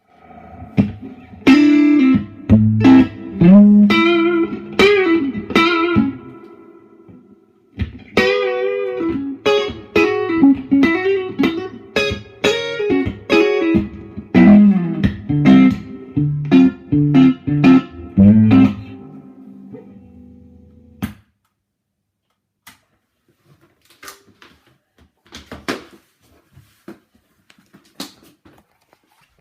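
Electric guitar played through an amplifier: two phrases of picked single notes with string bends and vibrato, stopping about 21 seconds in. Faint scattered clicks and taps follow.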